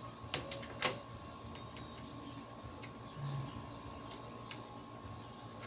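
Screwdriver working screws into a PS3's metal chassis: three sharp clicks in the first second, then a few fainter ticks, over a faint steady hum.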